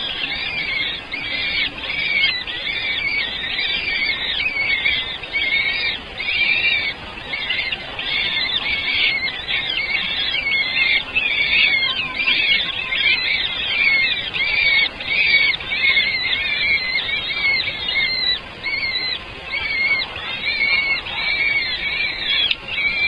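Nestling birds chirping without a break, a dense chorus of short, high, repeated calls: young birds begging to be fed.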